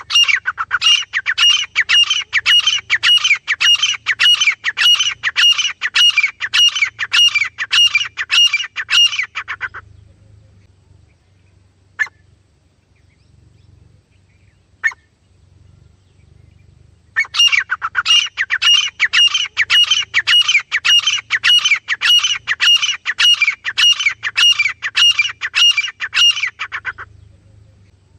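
Teetar (francolin) calling: a rapid run of harsh, evenly repeated notes, about three a second, lasting some ten seconds. Two single short notes follow, then a second ten-second run.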